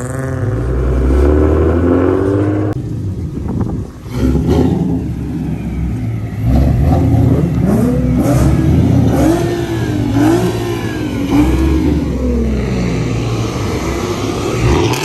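Car engine revving over a steady low rumble, its pitch rising and falling several times in quick succession in the second half.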